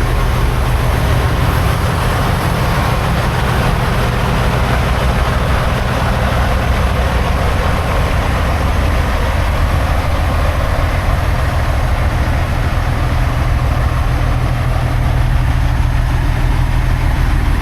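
Semi truck's diesel engine running steadily, a deep, constant low drone, slightly louder near the end.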